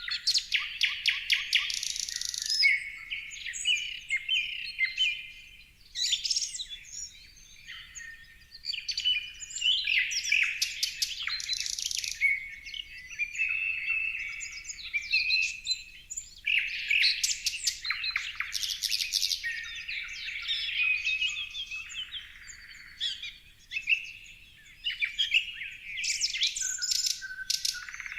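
Several songbirds chirping and singing at once, a busy chorus of overlapping rapid trills and short whistled notes with brief lulls.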